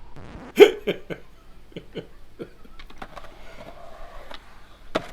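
Skateboard clattering: a loud sharp knock about half a second in, then a run of lighter clicks and knocks, and another sharp knock near the end, as a skater pops tricks, lands and hits a pole.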